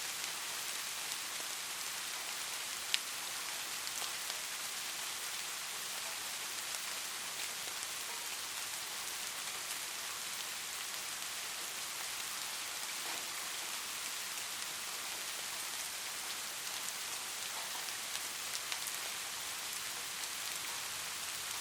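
Light rain falling steadily, an even high hiss with scattered individual drops ticking on a surface, one sharper tick about three seconds in.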